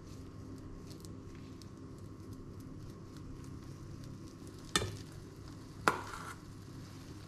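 Potato patty mixture sizzling faintly in hot oil in a frying pan. Near the end a metal spoon clinks sharply twice, about a second apart, and the second clink rings briefly.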